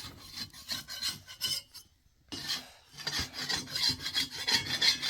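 Rough rasping or scraping strokes repeated in quick succession, pausing about two seconds in, then resuming faster and louder.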